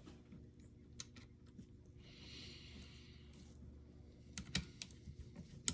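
Faint handling noise from small tools and parts being picked up and set down: scattered light clicks, a few in quick succession near the end, and a soft rustle partway through.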